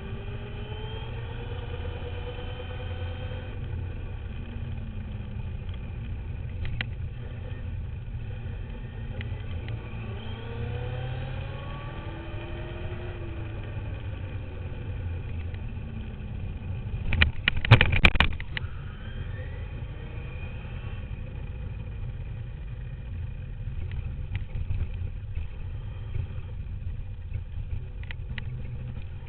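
Duratrax radio-controlled dirt bike heard from on board while riding: its motor whine rises and falls in pitch over a steady rumble of vibration and ground noise. About seventeen seconds in, a loud clatter of hard knocks.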